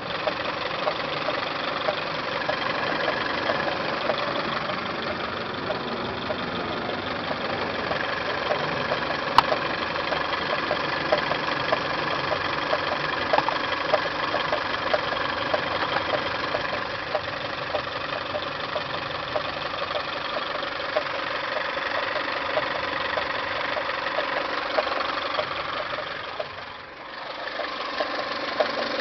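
1999 Toyota Camry's 5S-FE four-cylinder engine idling with a quick, regular ticking over the running noise: the weird noise from the timing belt and water pump area, its exact source not yet found. The sound dips briefly near the end.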